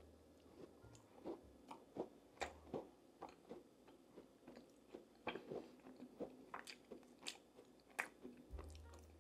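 Close-miked mouth sounds of a person biting and chewing food: a run of faint, irregular crunchy clicks, a few each second.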